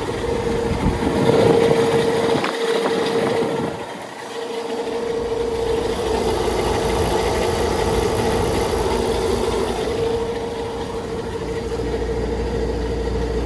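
2006 Rheem 5-ton central air conditioner condenser running, its noisy condenser fan motor giving a steady pitched hum over the rush of air; the fan motor sounds in need of checking or replacement. The level dips briefly about four seconds in.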